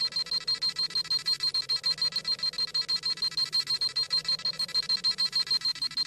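Scouter power-level scanning sound effect: a rapid, high-pitched electronic beeping at about seven beeps a second.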